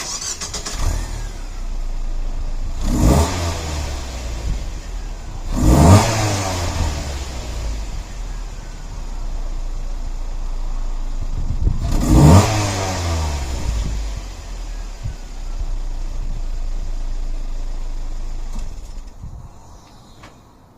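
Mazda Protege5's engine idling, blipped up in three quick revs that each rise and fall back to idle, then fading out near the end.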